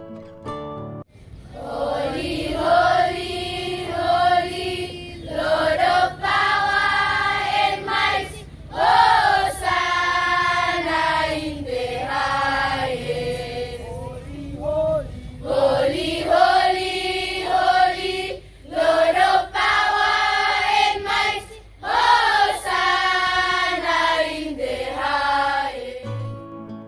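Voices singing a song together in long sung phrases separated by short breaths.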